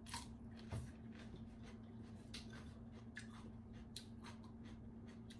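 Chewing a mouthful of crunchy pounded salad: a string of small, crisp crunches and mouth clicks over a steady low hum.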